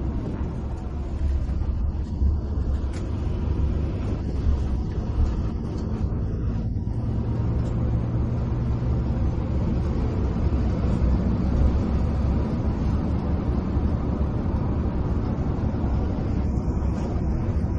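Steady low rumble of an intercity coach's diesel engine and tyre noise heard from inside the cabin while driving.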